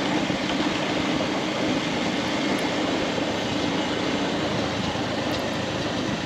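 Motorcycle running at a steady cruise, its engine hum mixed with wind and road noise on the helmet microphone.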